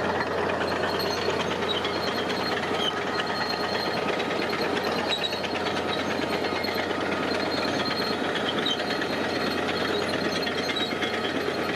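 Diesel engine of heavy construction machinery running steadily with a fast, even clatter.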